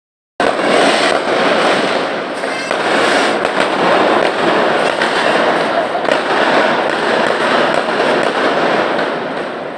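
Dense, continuous crackling of many firecrackers going off at once: a packed string of pops with no break, starting abruptly just under half a second in.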